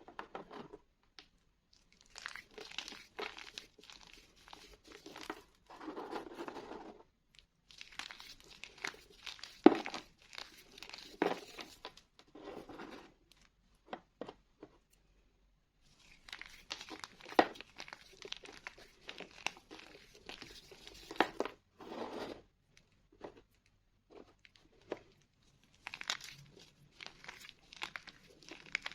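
School chalk being crushed and crumbled by hand: dry crunching and crackling in four bursts with short pauses between them, and a few sharp snaps, the loudest about ten seconds in.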